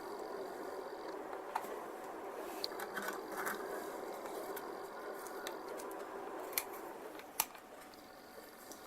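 A steel scriber scratching a panel line into the plastic of a scale model kit, drawn along a template. The steady scratching eases off about seven seconds in, with a few small clicks from the tool and template.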